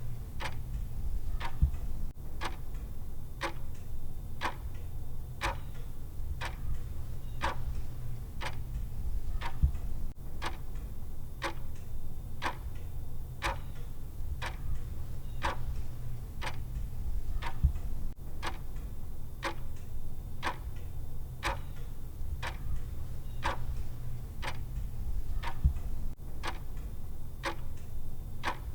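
Clock ticking sound of a countdown timer: even, regular ticks, about two a second, over a steady low hum.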